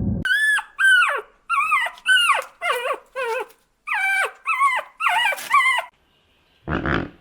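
An animal calling in a rapid series of about ten short cries, each sliding down in pitch, followed near the end by one short rough grunt-like sound.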